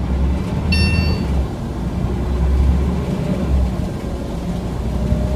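Scania OmniCity single-deck bus's diesel engine and drivetrain running under way, heard on board as a steady low rumble that swells and eases. A brief high ringing tone sounds about a second in.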